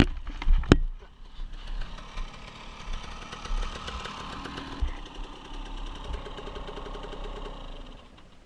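Dirt bike engine idling steadily after a couple of loud knocks in the first second, dropping away about eight seconds in.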